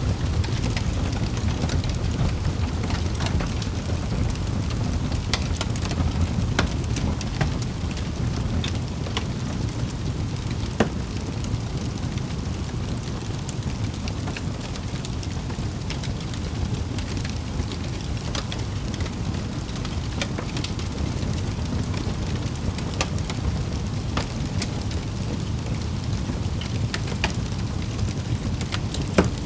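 Wood fire in a fireplace crackling: a steady low rumble of burning with irregular sharp pops and snaps, one louder pop about eleven seconds in and another near the end.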